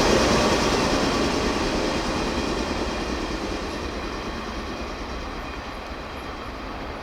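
Electric commuter train running along the track, its wheel and running noise fading steadily as it moves away.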